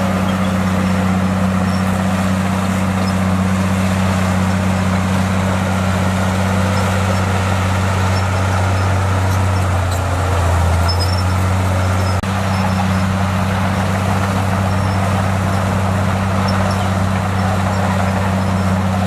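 Bulldozer's diesel engine running steadily with a deep, even hum. Its note shifts briefly about ten seconds in, and there is a short dip about twelve seconds in.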